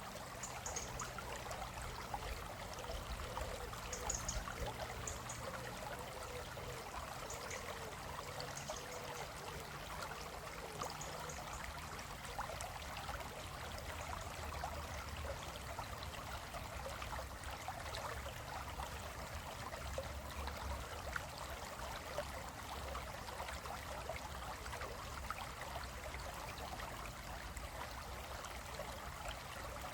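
Stream of water flowing steadily across rocks.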